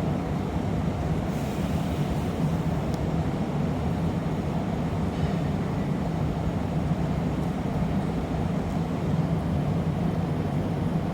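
Steady low roar of a glassblowing workshop's gas-fired furnace and glory hole burners, running without a break.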